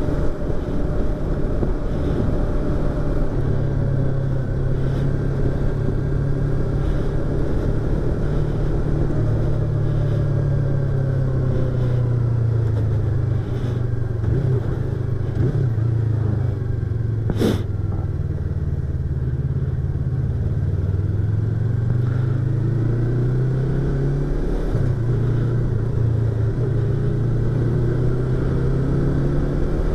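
Yamaha YZF-R25 parallel-twin engine and exhaust while riding, heard from inside the rider's helmet over wind rush; the engine note rises and falls several times with the throttle and speed. A single sharp click about halfway through.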